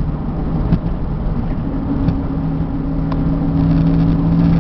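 Ford F600 box truck's 7.0-litre engine and road noise droning steadily at highway speed, heard from inside the cab. A steady hum comes in about two seconds in and grows slightly louder.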